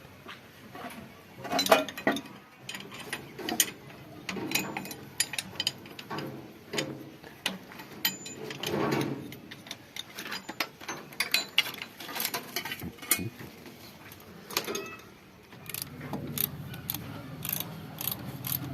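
Metal hand tools clicking and clinking on metal parts, with irregular sharp clinks and ratchet-like clicks throughout.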